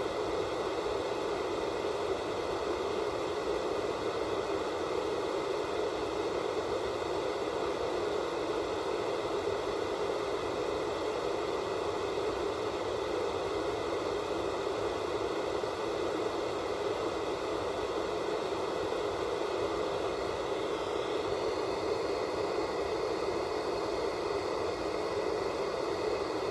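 Static hiss from an untuned analog television with no signal. The noise is steady and unbroken, fullest in the lower middle, with faint steady high tones above it.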